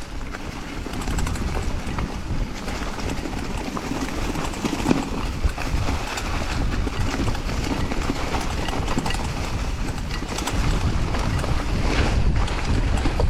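Mountain bike riding fast down a rough dirt trail: tyres rolling over dirt and rocks under a steady rush of noise, with frequent clatter and knocks from the bike over the bumps.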